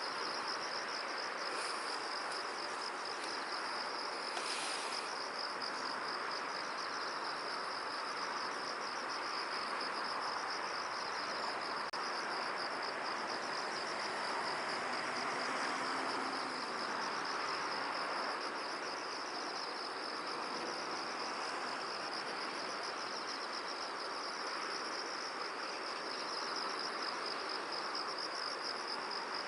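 Insects trilling steadily in a high, fast-pulsing chorus over a soft, even hiss.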